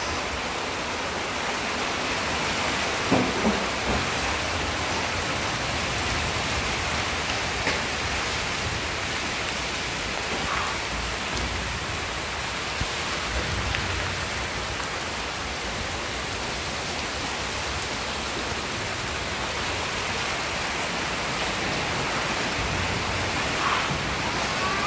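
Heavy rain pouring down onto a flooded street, a steady hiss of downpour splashing on standing water.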